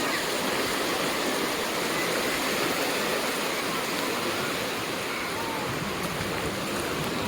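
Steady wash of sea surf on a beach: an even, unbroken rushing noise.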